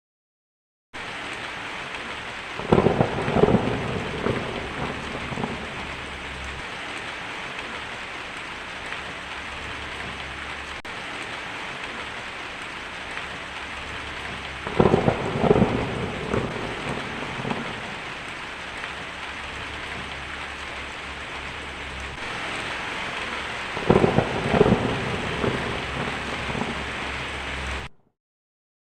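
Steady rain with three claps of thunder, each a crackling rumble lasting a couple of seconds: the first about three seconds in, the next near the middle, the last near the end. The sound starts abruptly about a second in and cuts off abruptly shortly before the end.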